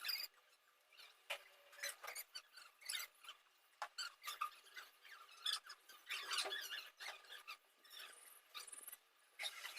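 Nestling birds' begging calls: many short, high, squeaky cheeps in irregular clusters, the calls chicks make to be fed.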